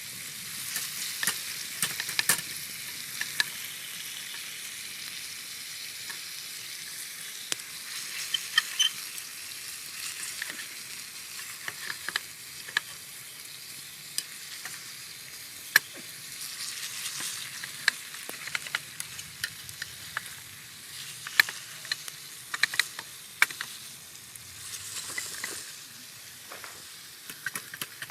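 Steak sizzling on a thick steel griddle plate over an open campfire, a steady hiss broken by frequent sharp pops and crackles.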